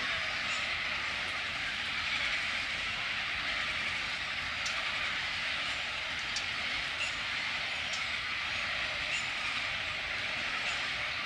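Steady chorus of calling frogs: an even, hiss-like drone with faint scattered ticks.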